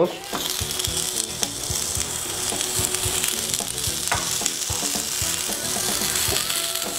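Nopal cactus pads sizzling on a hot, oil-sprayed grill pan; the sizzle starts abruptly as they go down and holds steady, with a few light knocks as the pads are pressed and moved in the pan.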